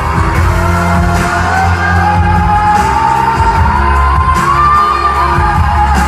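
Live pop ballad: a woman's lead vocal holds one long note that slowly rises in pitch, over a full band with a heavy pulsing bass.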